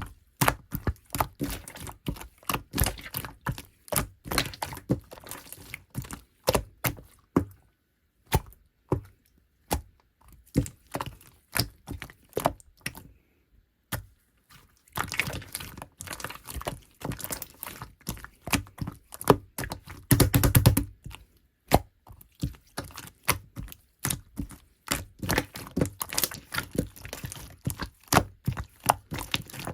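Clear slime being pressed and folded by hand, giving irregular sharp popping clicks a few per second, with short pauses and a quick run of dense pops about two-thirds of the way through.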